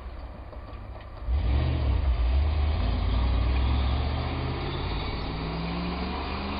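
A snowplow truck's engine rumbles loudly as it comes past, starting suddenly about a second in. Its pitch rises toward the end as the truck speeds up.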